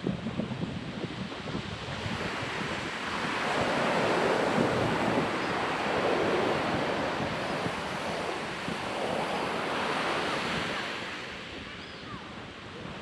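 Ocean surf breaking on a beach, the wash swelling in repeated surges from about three seconds in and easing near the end, with wind buffeting the microphone.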